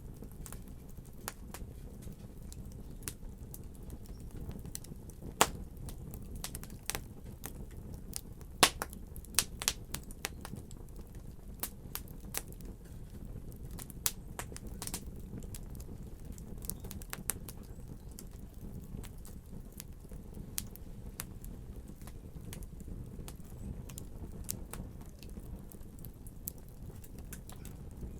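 Fire burning in a fireplace: a steady low rumble of flames with sharp crackles and pops scattered through it, coming thickest in the first half.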